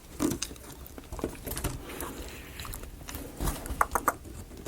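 Light clicks and knocks of wooden model parts being handled, as a marble-run track piece is slid and pushed into its slot, with a quick run of three or four sharper clicks near the end.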